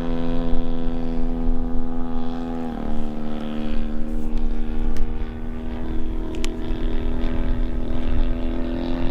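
DA-100 twin-cylinder two-stroke gas engine of a large RC Super Decathlon running steadily in flight, swinging a 27x10 propeller. Its note drops slightly about three seconds in and rises a little again near the end.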